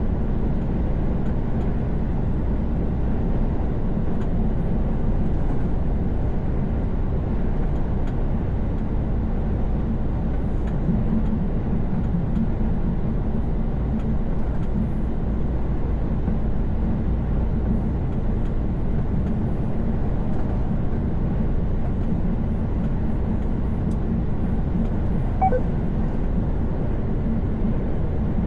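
Steady drone of a truck's engine and road noise heard from inside the cab while driving on the highway, with a brief short tone near the end.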